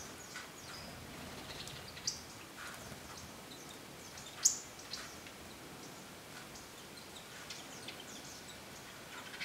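Birds giving scattered short, high chirps and calls, one sharp call louder than the rest about four and a half seconds in, over a faint steady forest background.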